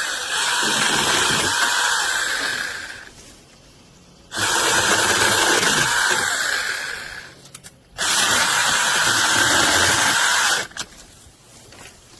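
Small cordless brushless mini chainsaw running in three bursts of about three seconds each, a steady whine that winds down or cuts off between bursts as the trigger is released.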